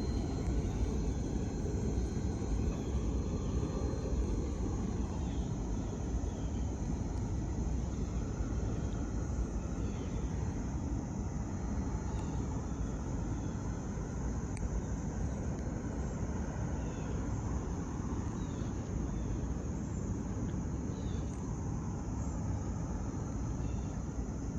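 Steady low outdoor rumble without any clear engine note, with faint short chirps from about five seconds in.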